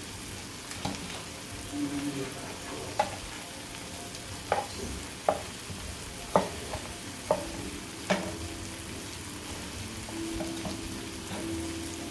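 Chicken strips frying and sizzling steadily, with a utensil clinking sharply against the pan about seven times.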